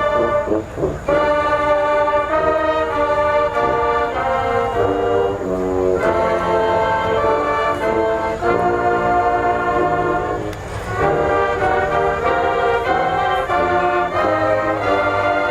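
HBCU marching band brass section playing a loud, sustained brassy passage, with short breaks between phrases about a second in, about five and a half seconds in, and about ten and a half seconds in.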